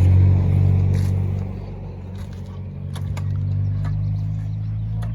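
Dirt bike engine idling steadily, with a few light clicks.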